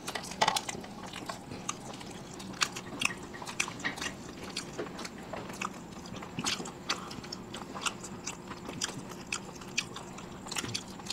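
People chewing and biting food close to the microphone, with irregular wet mouth clicks and small crunches.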